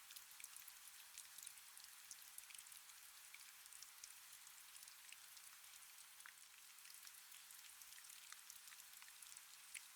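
Faint, steady rain: an even hiss sprinkled with many small, irregular drop ticks.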